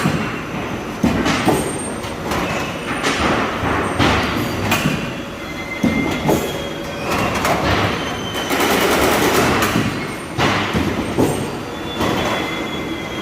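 Colour-coated steel roofing-sheet production machine running: a steady metallic rumble broken by irregular clanks about every second, with brief high metal-on-metal squeals.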